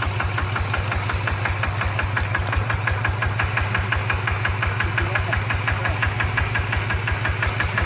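Single-cylinder diesel engine of a two-wheel rice-paddy hand tractor running steadily under work, with an even, regular chugging beat.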